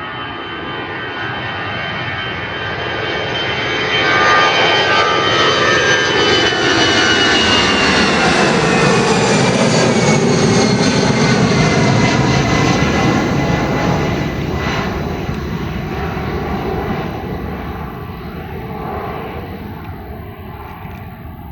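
Airbus A319 twin-jet airliner with CFM56 turbofans on its takeoff run past the listener. The engine noise builds to a peak about four seconds in, with high whining tones sliding down in pitch as it goes by, then fades away toward the end.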